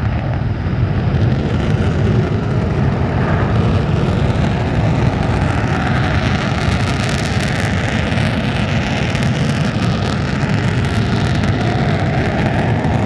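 Steady, loud jet roar, typical of a Panavia Tornado's twin turbofan engines running.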